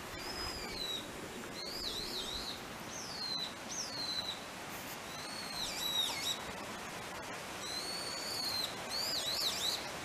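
Wild birds singing: a continuous run of high, clear whistled phrases, some sliding down in pitch and some wavering quickly up and down.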